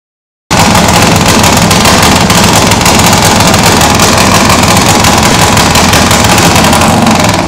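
Motorcycle engine running very loud and steady with a rapid machine-gun-like crackle of firing strokes, overloading the phone's microphone. It starts abruptly about half a second in and drops away just before the end.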